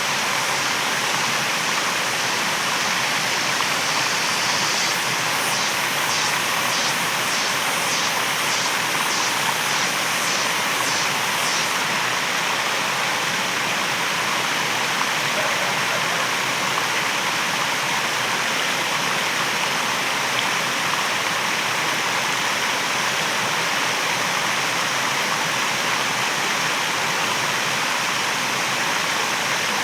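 Waterfall: steady rushing of falling water. From about five to twelve seconds in, a faint high pulsing sound repeats about one and a half times a second.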